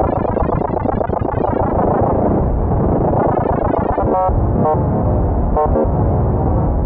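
Synthesizer music: a dense, noisy electronic wash with a few short pitched notes from about four seconds in.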